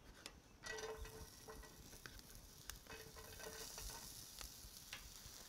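Grated yam and sweet potato dropped by hand into hot olive oil in a pan, sizzling faintly as they begin to sweat; the frying starts about a second in.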